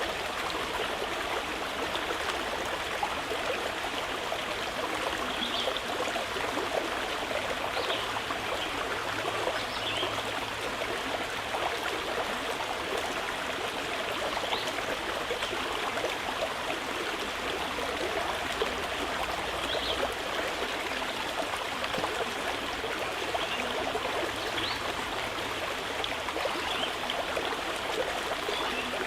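Mountain river flowing steadily with an even rush of water, and faint short bird chirps now and then.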